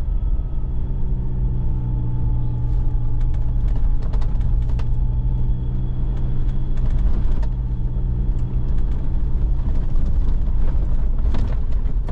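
A 4x4's engine running steadily under way, heard from inside the cabin, with scattered light clicks and knocks from the vehicle on the snowy dirt track.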